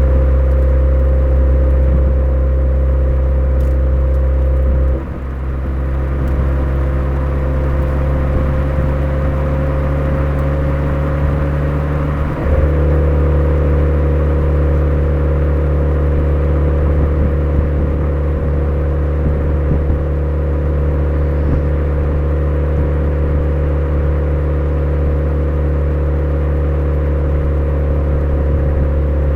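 Exhaust note of a Suzuki Swift Sport ZC33S's 1.4-litre turbo four-cylinder through a Fujitsubo aftermarket muffler, running at an even engine speed. The note drops in level about five seconds in, rises slowly in pitch, then changes abruptly to a new steady pitch about twelve seconds in.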